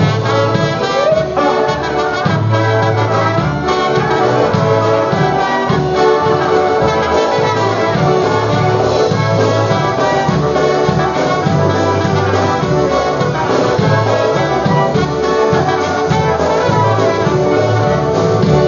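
Live polka band playing an instrumental break, led by horns, over a steady oom-pah bass beat.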